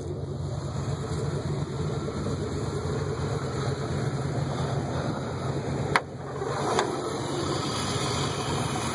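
Chevrolet 355 small-block V8 with TBI fuel injection, a mild cam and a Cherry Bomb muffler, idling steadily with the hood up. A sharp click cuts through about six seconds in.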